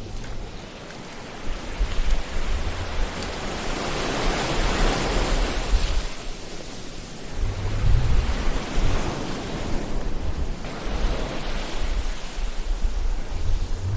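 Ocean waves washing in and receding, a steady rush of surf that swells and falls in slow surges, with one wave building about four seconds in and another around eight seconds.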